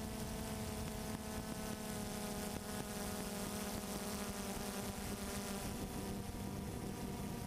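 Multirotor drone's propellers and motors humming steadily, a constant high buzz with no change in pitch.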